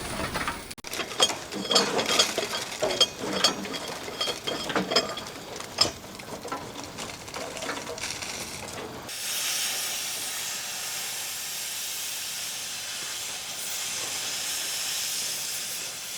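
Irregular sharp clanks and knocks, some with a brief metallic ring, then a steady hiss that starts abruptly about nine seconds in.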